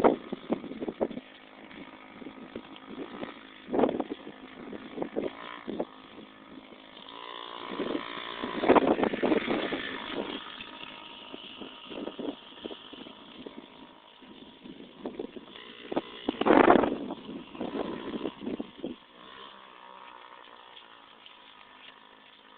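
Dirt bike engine revving up and down as the bike rides, loudest twice (about nine seconds in and again near seventeen seconds), then running quieter toward the end.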